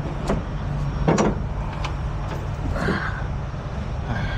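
A few sharp metal clanks and a short scrape from parts being pulled off a semi truck's drive shaft, over the steady low idle of a truck engine.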